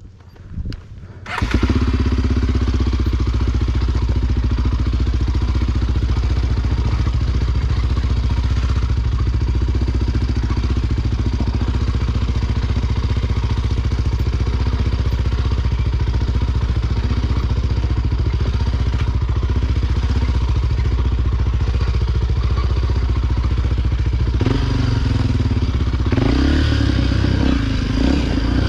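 Honda XR Tornado single-cylinder motorcycle engine comes in suddenly about a second and a half in and runs loud at a steady speed, then turns uneven in the last few seconds.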